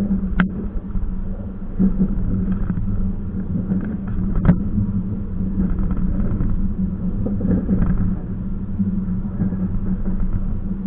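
Train running, a steady low rumble with a constant hum, broken by two sharp knocks, one just after the start and one about four seconds in.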